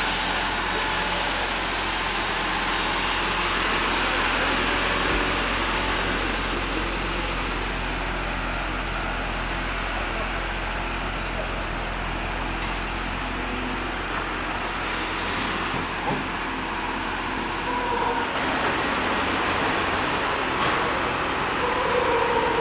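Four-cylinder engine of a 1976 Murat 124 running steadily at low speed as the car creeps forward.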